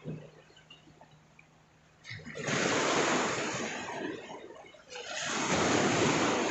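Sea waves washing onto the shore, two surges of rushing water that swell and fade, the first starting about two seconds in.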